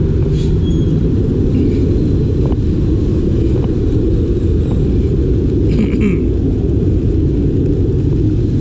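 Steady, loud low rumble of wind buffeting the microphone, with a few faint taps over it.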